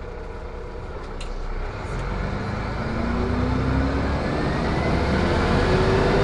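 Van Hool A320 city bus heard from inside the cabin, pulling away: engine and drivetrain whine rising steadily in pitch and getting louder as it accelerates. Two faint clicks come about a second in.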